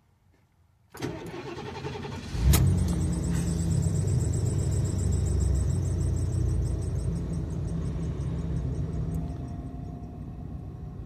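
Cold start of a 1990 Ford E350 motorhome's fuel-injected 460 V8 with a Flowmaster muffler. The starter cranks for about a second and a half, then the engine catches and settles into a fast idle. A high, pulsing squeal rides over the engine and fades over several seconds; its cause is still unknown to the owner, who finds the belts look fine.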